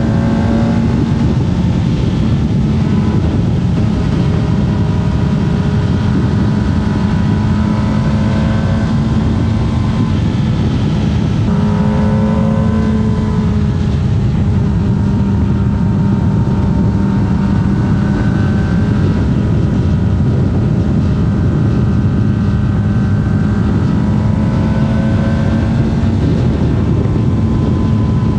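Kawasaki ZX-25R's 250 cc inline-four engine running steadily under way on a racetrack, its pitch sliding down and back up about eleven seconds in as speed changes, over a constant rushing noise.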